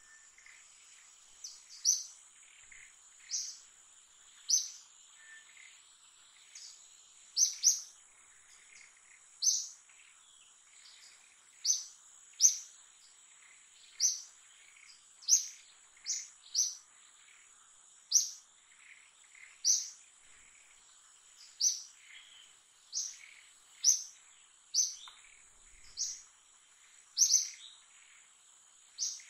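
A bird calling with short, sharp, high chirps, one every second or two and sometimes two close together, over a steady high-pitched insect drone.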